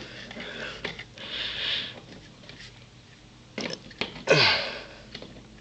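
A person sniffing and breathing hard close to the microphone: a short sniff about a second in, and a louder sniff or snort a little past four seconds with a brief grunt falling in pitch, plus a couple of light handling clicks.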